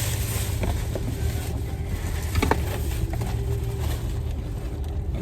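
Steady low rumble of a car moving, engine and road noise heard from inside the cabin, with a few faint ticks.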